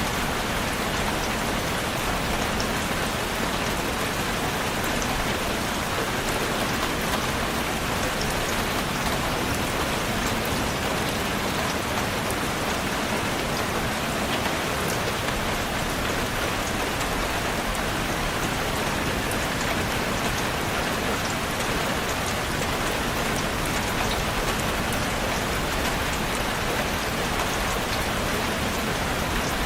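Steady rain falling, an even patter of raindrops on a surface with no let-up.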